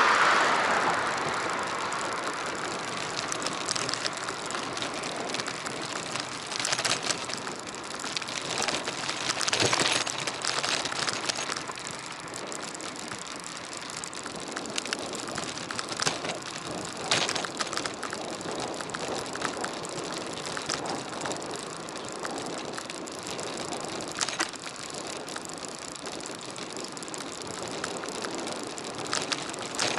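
A bicycle being ridden on a road, heard from a bike-mounted action camera: a steady rush of tyre and wind noise with scattered clicks and rattles from the bike. A louder passing sound fades away in the first couple of seconds.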